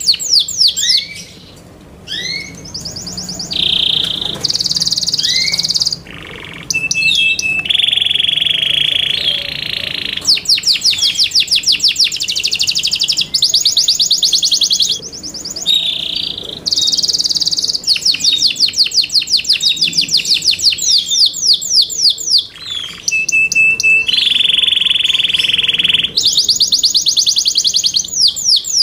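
Yorkshire canary singing a long, loud song built of phrases that change every second or two: fast rolls of rapidly repeated high notes alternate with held, buzzy trills, with brief pauses between them.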